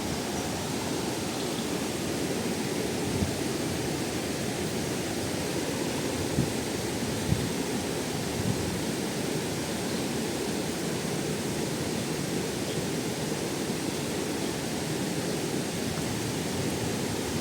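Waterfall rushing steadily, a deep even roar of falling water, with a few faint knocks in the first half.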